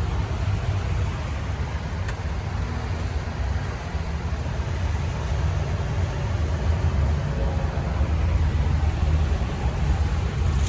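Low, steady vehicle rumble.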